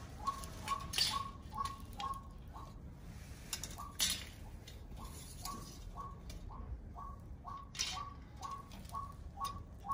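A bird calling over and over in short notes that drop slightly in pitch, about three a second, with a few light clicks from the wire trap and tape measure being handled.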